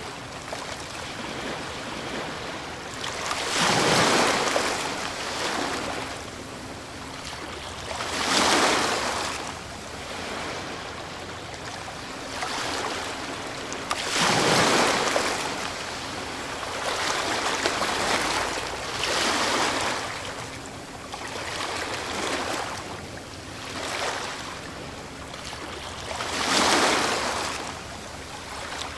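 Ocean waves breaking on a shore one after another, each surge swelling and washing back every few seconds over a constant hiss of surf.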